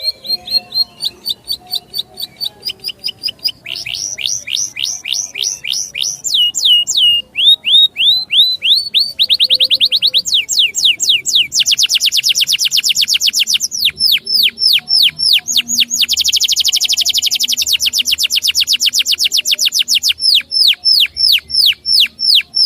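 A small songbird singing a long song of sharp, repeated whistled notes. It moves through phrases that change speed and pitch every few seconds, from slower runs of falling notes to very fast trills.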